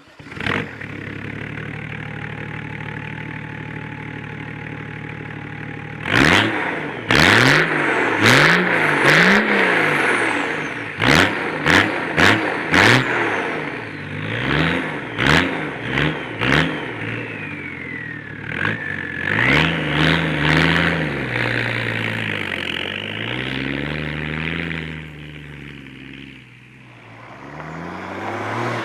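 BMW E34 525tds's 2.5-litre straight-six turbodiesel with a straight-pipe exhaust starts and idles steadily for about five seconds. It is then blipped in a quick series of about ten sharp revs, followed by slower, longer revs that fall back toward idle and climb again near the end.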